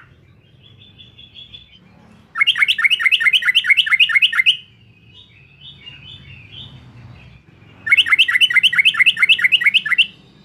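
Yellow-vented bulbul singing: two loud runs of rapid repeated notes, about five a second and each lasting about two seconds, with softer chattering notes in between.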